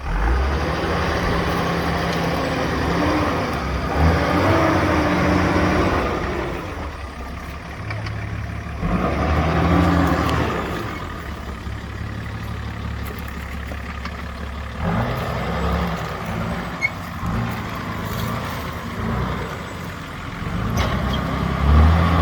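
Nissan Patrol four-wheel-drive engine working under load on a rough track, revving up in several surges and falling back between them.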